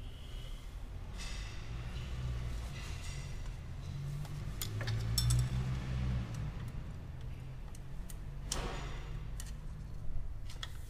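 Scattered metallic clicks of a wrench ratchet as the cylinder head bolts are turned through their angle-tightening stage, one louder click about eight and a half seconds in, over a steady low hum.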